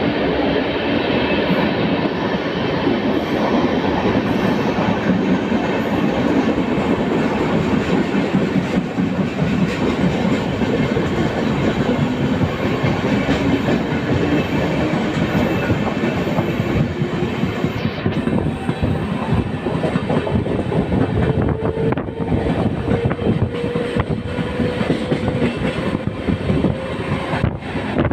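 Express passenger train of LHB coaches running past on the tracks: a steady rumble of wheels on rail with a faint tone rising slowly in pitch, and from about two-thirds of the way through, a fast run of clacks as the wheels cross rail joints.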